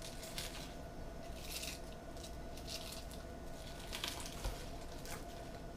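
Faint rustling and crinkling of loosely packed spinach leaves being put into the blender cup, in several short handfuls.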